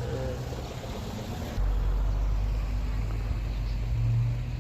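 Low steady hum; about a second and a half in, a deeper rumble starts suddenly and carries on.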